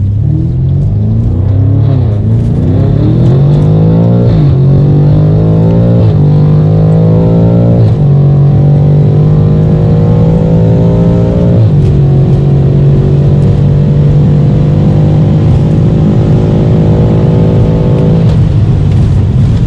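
Stage 3 tuned (about 1,000 hp) BMW F90 M5's twin-turbo V8 at full throttle. Its pitch climbs through the gears with five quick upshifts, then holds high in the top gear. Near the end it drops away as the throttle is lifted.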